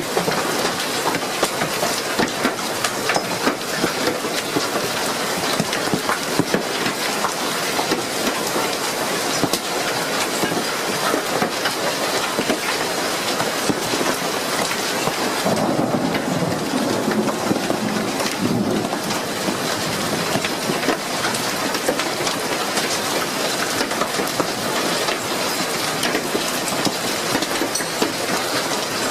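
Hailstorm: a dense, steady clatter of hail and rain pelting down, with a deeper rumble for a few seconds a little past halfway.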